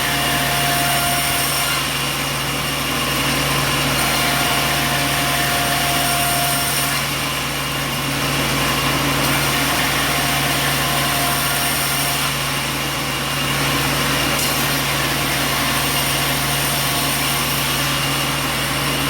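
Sawmill machinery running steadily: a continuous mechanical drone with a constant hum, and a higher whine that comes in and fades out three times.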